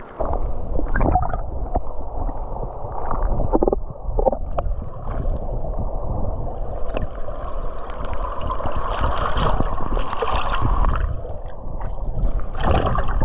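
River water gurgling and splashing close to the microphone, over a steady low rumble, with a few small knocks.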